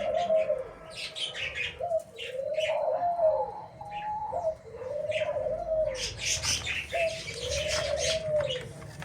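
A dove cooing: a long coo that rises and falls, three times about two and a half seconds apart, over the high chirping of small birds.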